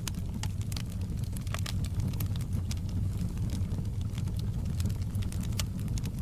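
Wood fire crackling in a fireplace: many small, sharp, irregular pops and snaps over a steady low rumble of the flames.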